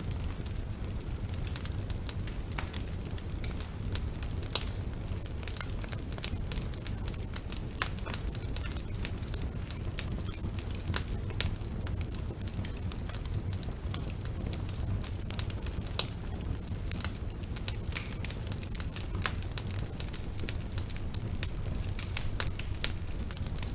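Wood fire burning in a fireplace: a steady low rumble of the flames with irregular sharp crackles and pops, two louder pops about four and a half and sixteen seconds in.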